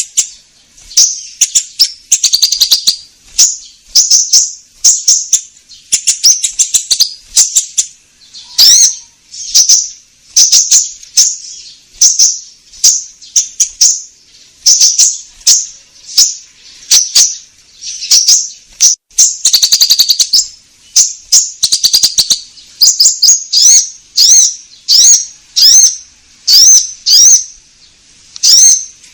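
Konin bird singing actively: short, high, rapid chattering phrases repeated about once a second.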